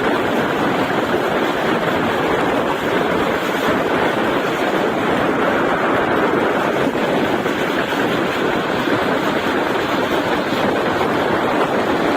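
Steady rushing noise of a passenger express train running at speed, with wind buffeting the microphone.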